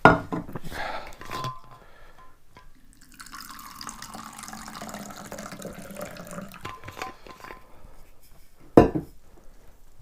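Tea being poured into a cup: a steady pouring hiss for several seconds. There is a sharp knock of crockery at the start and a louder one near the end.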